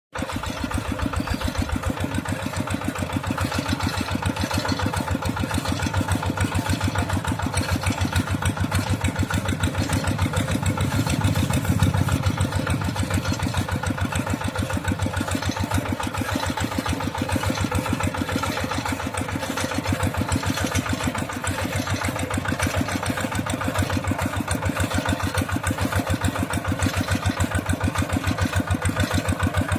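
Mini tractor engine running steadily with a rapid, even chugging, swelling slightly for a moment partway through.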